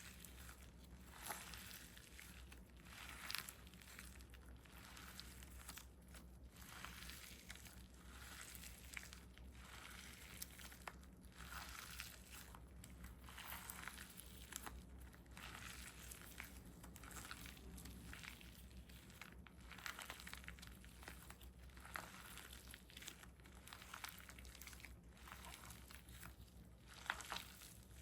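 Handmade squishy toy being squeezed and pressed by hand: soft, irregular crinkly squishes repeating every second or so, with a slightly sharper squeeze about three seconds in and another near the end.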